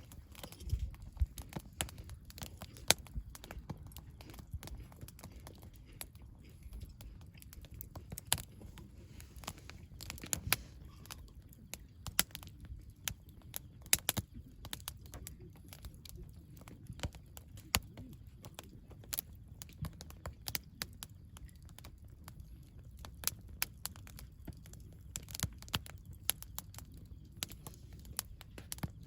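Wood campfire burning, crackling with many irregular sharp pops and snaps over a low, steady rumble.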